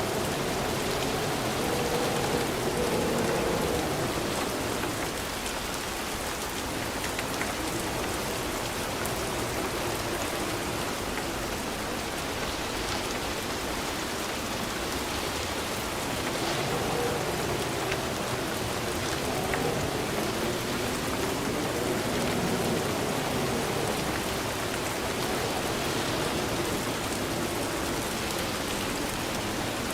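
Steady heavy rain falling on a surface, an even hiss of drops. A faint wavering low tone drifts up and down underneath it near the start and again in the second half.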